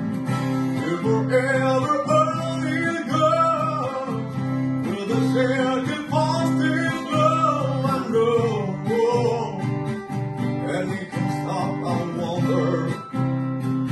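Acoustic guitar strummed in steady chords while a voice sings the melody from about a second in until near the end.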